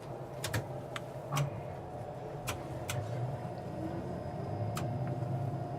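Cabin noise inside a Bombardier Flexity Outlook low-floor streetcar: a steady low hum with a faint steady whine above it, and scattered light clicks and rattles.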